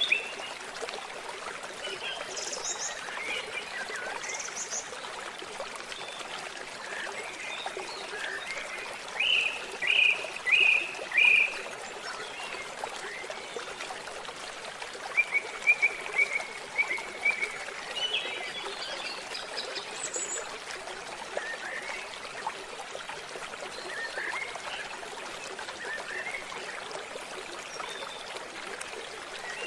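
Steady trickling of a small stream with wild birds chirping on and off over it; the loudest are a group of four short chirps about ten seconds in and a quick run of notes a few seconds later.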